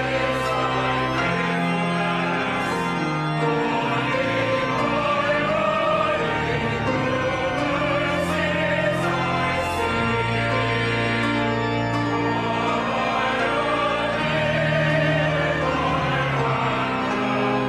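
Church music: singing with long, held notes with vibrato over sustained low notes, with no speech.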